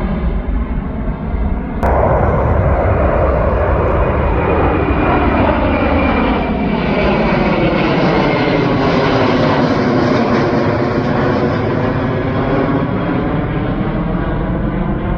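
Airliner passing overhead, its engine roar sweeping in pitch as it comes in, passes and goes away. An abrupt jump in loudness comes about two seconds in.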